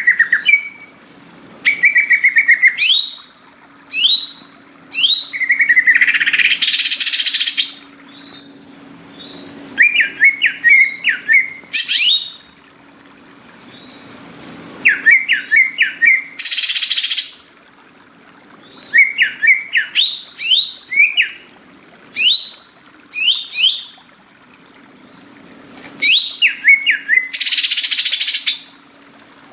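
Cucak ijo (green leafbird) singing in loud bursts of rapid whistled phrases, many notes sliding quickly downward. The phrases are broken three times by a harsh, rasping call lasting a second or so. A faint steady low hum lies underneath.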